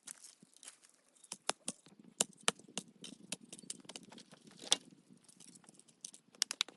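Irregular sharp clicks and taps, with a low scraping or rustling from about two seconds in until about five seconds in.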